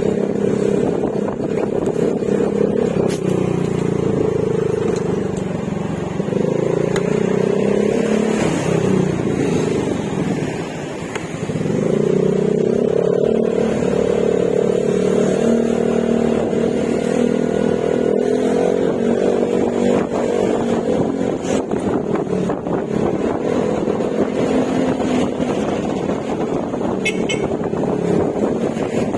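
Yamaha Mio Gravis scooter's single-cylinder four-stroke engine through an Akrapovic exhaust with silencer, cruising at steady throttle. The engine note drops briefly about ten seconds in as the throttle eases off, then picks up and climbs again.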